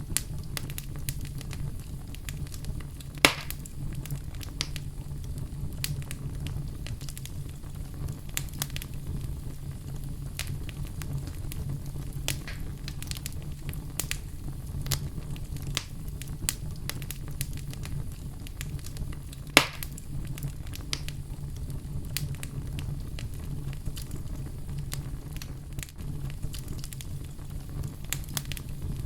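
Wood fire burning in a fireplace, crackling steadily over a low rumble of the flames, with two louder sharp pops, one a few seconds in and one about two-thirds of the way through.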